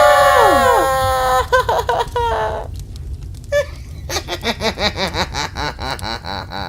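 A scream of several voices, held and then falling in pitch, that breaks off about a second and a half in. From about four seconds in comes a quick, rhythmic cackling laugh.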